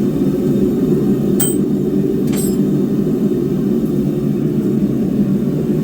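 Forge running with a steady roar. About a second and a half in, two light metallic clinks ring briefly, about a second apart: steel tapped on steel.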